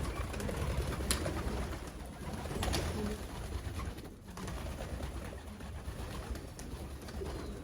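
Racing pigeons cooing: several short, low coos over a steady low rumble, with a couple of sharp clicks about one and nearly three seconds in.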